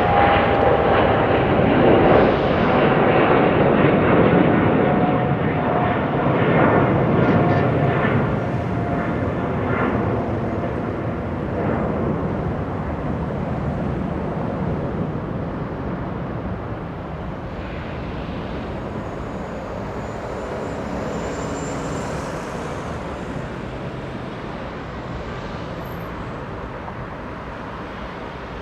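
Jet airliner's engines running loud as it passes, then fading away steadily, with a thin whine that slowly falls in pitch.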